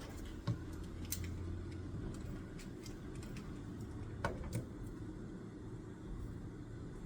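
Scattered light clicks and taps from desk work, a handful of sharp ones among fainter ticks, over a low steady room hum.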